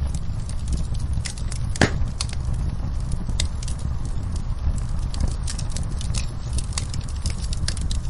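Fireplace fire crackling over a steady low rumble, with many small sharp snaps and one louder pop a little under two seconds in.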